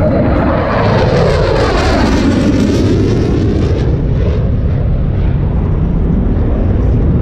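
Airplane flying past at an air show, a loud rushing engine noise whose pitch sweeps downward as it passes in the first few seconds, then a steady rumble as it moves away.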